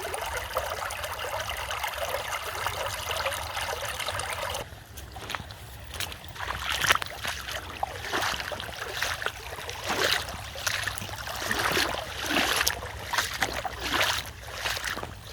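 Rainwater running down a flooded road like a small stream, a steady rushing trickle. About five seconds in the sound changes to uneven surges of splashing water with scattered knocks.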